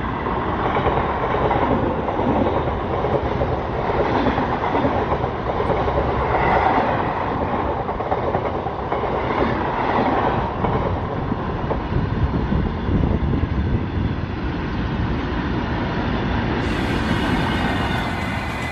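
A suburban electric multiple-unit train passing close at speed beside a goods train of covered open wagons rolling on the next track: a steady wheel-on-rail rumble with clickety-clack of wheels over rail joints. The EMU clears partway through, leaving the wagons rolling by.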